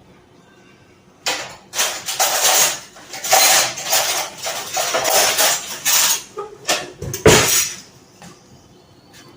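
Spoon and dishes clattering and scraping, in a run of noisy bursts lasting several seconds, with a sharp knock near the end.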